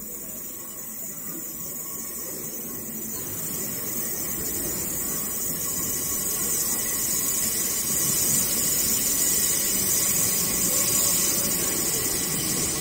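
Merseyrail electric train approaching, growing louder over about the first eight seconds and then holding steady, with a thin squeal and hiss from the wheels on the rails.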